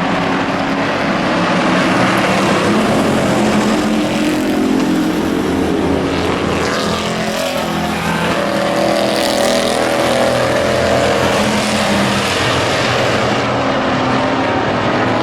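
Several race trucks' engines running hard together as the pack circles the oval track. Their engine notes overlap and rise and fall in pitch as trucks pass by.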